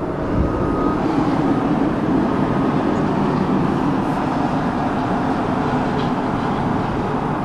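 Wind blowing across the microphone, a steady loud rumbling rush.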